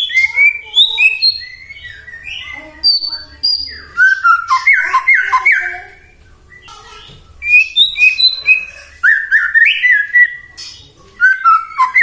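White-rumped shama (murai batu) singing loudly: rapid phrases of clear whistles and sliding notes mixed with harsher squawk-like notes, with a short pause about six seconds in.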